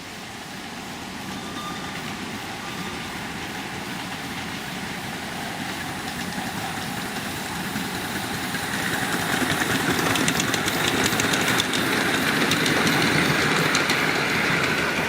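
Miniature railway locomotive and train running on the track, growing steadily louder as it approaches and loudest near the end, with faint rapid ticking.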